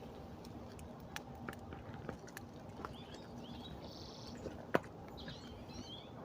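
Small birds chirping in short, high calls over a quiet background, with scattered faint clicks and one sharper click about three-quarters of the way through.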